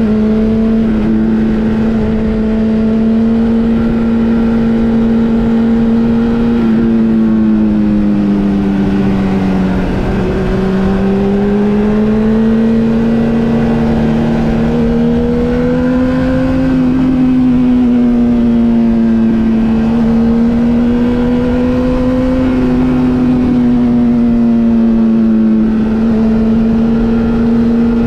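Motorcycle engine running at steady revs, its pitch rising and falling slowly with the throttle, with a dip about ten seconds in.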